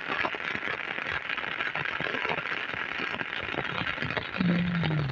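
Heavy rain falling steadily, a dense crackling hiss of drops hitting the ground and surfaces. A brief voice sound comes in near the end.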